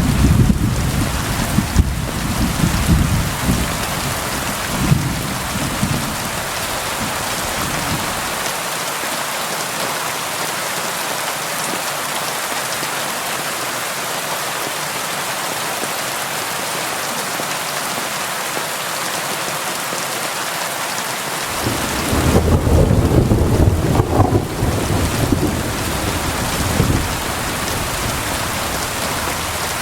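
Steady rain on a window, with low rolling thunder at the start that dies away after about eight seconds. A second roll of thunder comes in a little past twenty seconds and fades a few seconds later.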